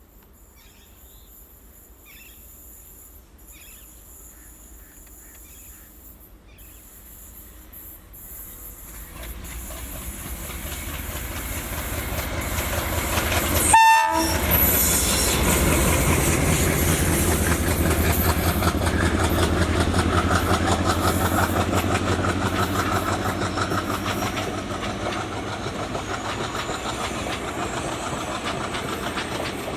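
Diesel-hauled Indian Railways passenger train approaching and passing: faint at first, then the locomotive and coaches build to a loud rumble with wheels clicking over rail joints, easing off slowly near the end. A very short horn note sounds about halfway through.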